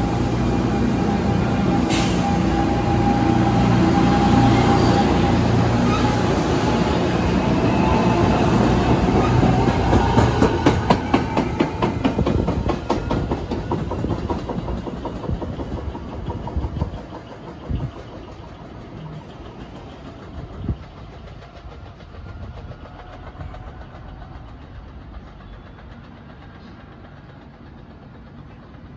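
NJ Transit passenger train of Comet coaches behind an ALP-45DP locomotive running along the platform and pulling away. Wheels clatter over rail joints around ten to thirteen seconds in, then the sound fades as the train recedes, with a couple of low knocks along the way.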